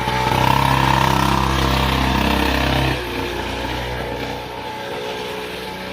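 Motocross bike engine running steadily, louder for about three seconds and then dropping back to a quieter, lower run.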